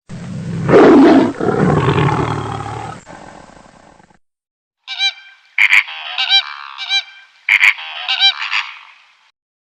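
A large animal's long, low roar lasting about four seconds, then after a short silence a rapid series of high, honking animal calls that stops about nine seconds in.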